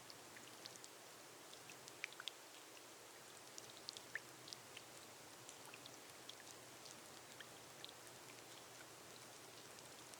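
Faint, gentle rain on a glass roof: a soft steady hiss with scattered single drops ticking, a few of them a little louder.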